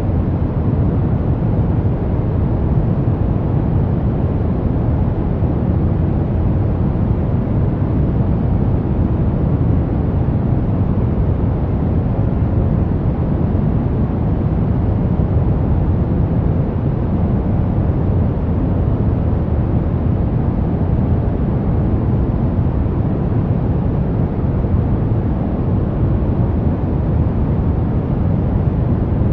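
Brown noise: a steady, even rumbling hiss, heaviest in the low end and falling away in the highs, with no changes.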